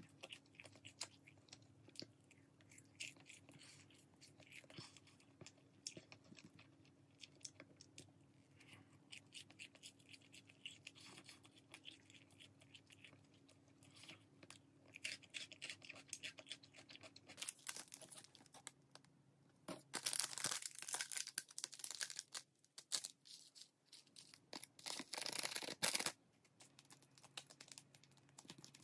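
Chewing of crunchy glazed fried chicken, with small clicks of wooden chopsticks. About two-thirds of the way in come louder bursts of plastic crinkling and tearing as a sauce packet is opened.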